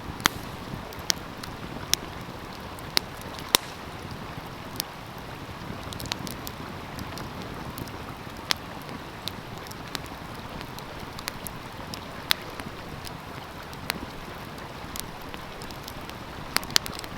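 Wood fire crackling, with sharp irregular pops every second or so and a quick run of them near the end, over the steady rush of a flowing stream.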